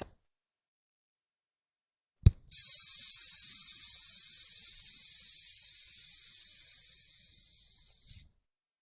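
Manual sphygmomanometer's release valve: a single click, then a steady hiss of air escaping from the cuff that fades slowly over about six seconds and stops suddenly, the cuff deflating.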